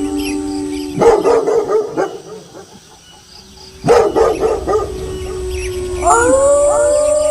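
Wolves howling, cut into twice by loud bursts of dog barking, about a second in and again about four seconds in. About six seconds in, a new chorus of several overlapping howls rises in pitch.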